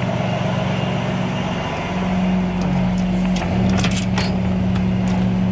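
Tow truck engine running steadily with a low hum that grows louder and shifts up about two seconds in. A cluster of sharp metallic clicks and clanks comes a little past the middle.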